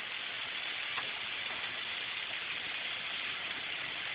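Peppers sizzling as they sauté in a pan, a steady frying hiss, with a faint click about a second in.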